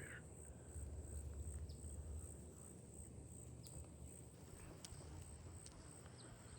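Faint insects chirping, a high thin trill pulsing evenly about three times a second, over a low rumble with a few faint ticks.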